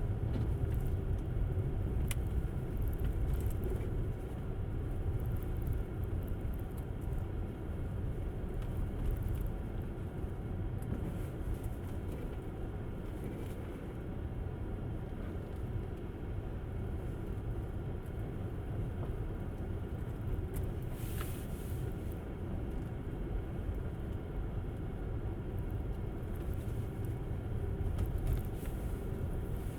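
Steady low road rumble and tyre noise from a Tesla Model S, an electric car with no engine note, driving on snowy roads. A brief hiss rises and fades about two-thirds of the way through.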